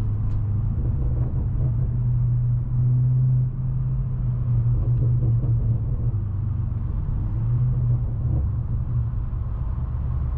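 BMW M550i's twin-turbo V8 and road noise: a steady low rumble while driving in traffic, briefly a little louder about three seconds in.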